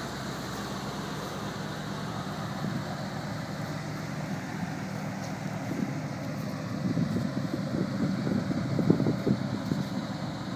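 The L82 350 V8 engine of a 1979 Corvette Stingray idling with a steady low rumble. It gets louder and more uneven in the second half.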